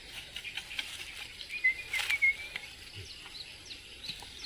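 Birds chirping, with a short warbling call about two seconds in, and a few sharp clicks near the middle.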